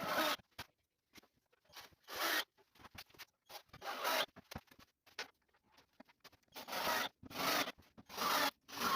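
Short rasping strokes of something rubbed hard across a surface, about eight of them at irregular intervals with pauses between.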